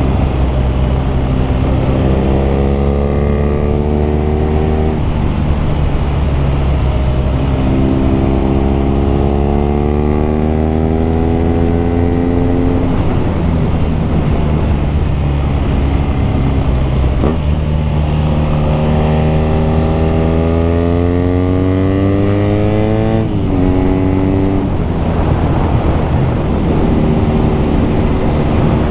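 BMW R nineT's air-cooled boxer twin running under acceleration, its exhaust note climbing in pitch and then dropping at each gear change, about four times, with steadier cruising stretches in between.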